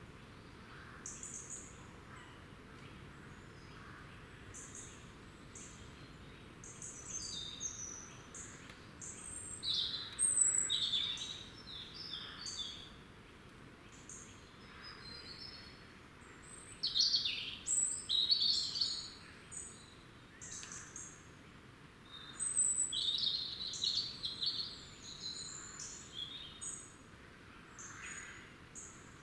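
Several small woodland birds calling and singing, many short high-pitched chirps and trills overlapping in flurries, over a faint steady background hiss.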